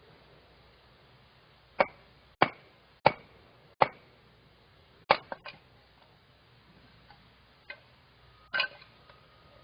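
A series of sharp knocks, about nine in all: four evenly spaced roughly two-thirds of a second apart, then a quick cluster of three, then two more singly near the end.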